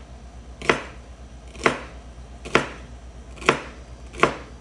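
Kitchen knife chopping vegetables: five slow, separate strokes about a second apart, each a sharp knock on the board.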